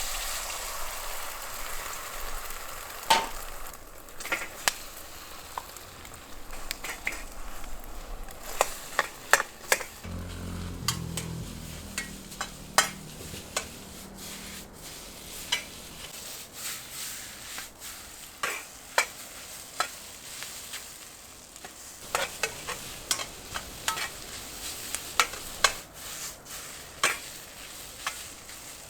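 Fried rice sizzling in a pan over a wood fire while it is stirred, with many sharp clicks and scrapes of the spatula against the pan.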